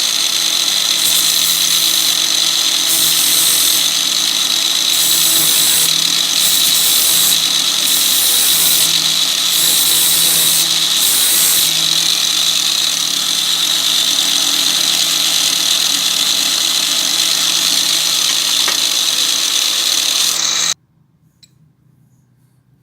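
Electric power tool running steadily on metal, with repeated bursts of scratchy high hiss in the first half. It stops abruptly near the end.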